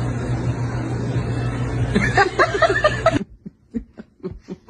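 A steady low hum with background noise and brief voices, then after a sudden cut a short, chuckling laugh in quick bursts, about four a second.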